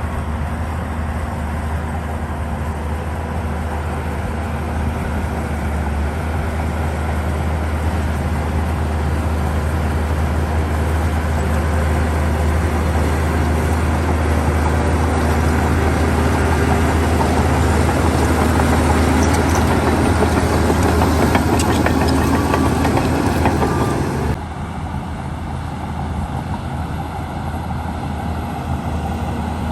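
Diesel engine of heavy earthmoving machinery running with a deep, steady drone. It grows louder and busier until it drops off abruptly about 24 seconds in, then runs on quieter.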